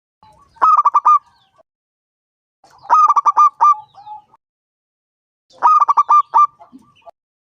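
Zebra dove (perkutut) singing its cooing song: three phrases, each a quick run of clipped notes followed by a softer, lower trailing coo.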